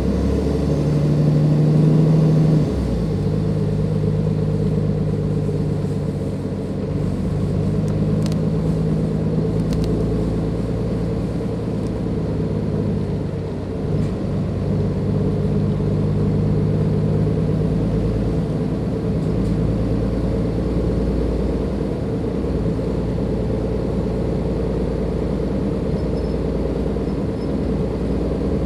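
Cummins ISLe diesel engine of a Dennis Enviro 500 double-decker bus with a ZF Ecomat automatic gearbox, running under load. Its low engine note steps and dips several times, loudest in the first couple of seconds.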